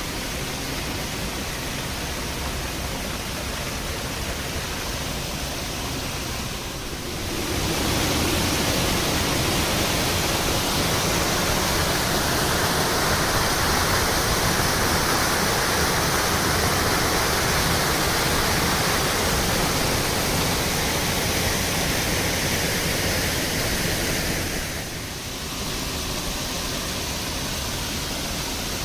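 Steady rushing of water from a waterfall, a continuous even roar without distinct events. It gets louder about a quarter of the way in and drops back again near the end.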